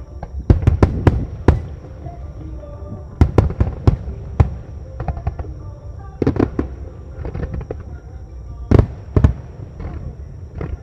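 Starmine fireworks barrage, aerial shells bursting in clusters of sharp, loud bangs: a quick run about half a second to a second and a half in, another around three to four and a half seconds, a group near six and a half seconds, and two of the loudest near nine seconds.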